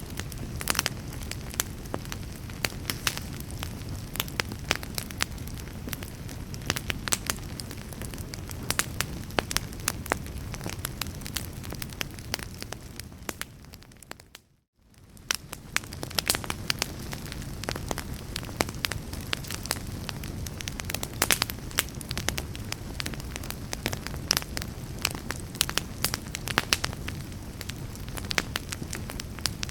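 Wood fire crackling in a fireplace: many sharp pops and snaps over a steady low rumble. Just before halfway through, the sound fades out to near silence and fades back in.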